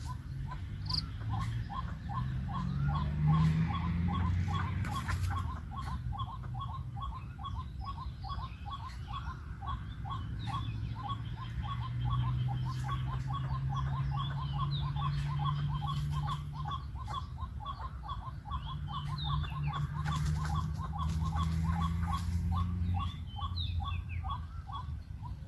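White-breasted waterhen calling a monotonous, rapidly repeated note, about four to five a second, with a low rumble underneath and faint chirps above.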